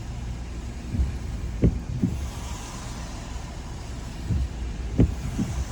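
Car interior road noise while driving on a wet road: a steady low rumble with tyre hiss, broken by several short thumps that come roughly in pairs.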